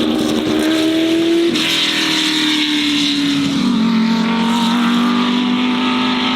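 Oilstainlab Half 11's straight-piped LS V8 running loud at high revs. Its pitch drops sharply about a second and a half in, then sags slowly lower with another small step near the middle.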